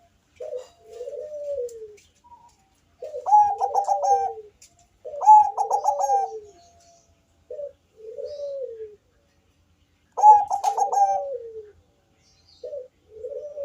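Zebra dove of the Bangkok song strain (perkutut bangkok) cooing in repeated phrases. Several phrases begin with a quick run of short clipped notes and end in lower coos that rise and fall. Faint high chirps of another small bird sound alongside.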